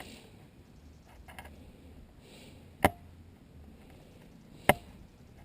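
Old stitches being cut out of a vinyl seat seam: two sharp snaps about two seconds apart, with faint rustling between them.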